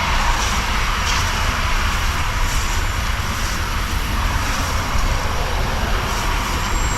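Steady engine drone with a deep low rumble underneath, holding an even level.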